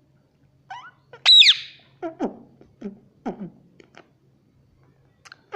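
Pet ringneck parrot calling: a short call, then a loud, high screech falling in pitch about a second in, followed by four short calls that each drop steeply in pitch.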